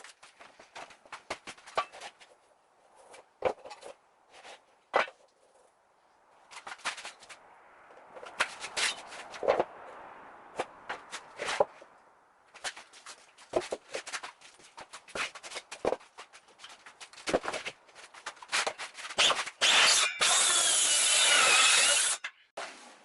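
Knocks and scrapes of work on wooden roof timbers, then near the end about two and a half seconds of a power saw cutting through wood.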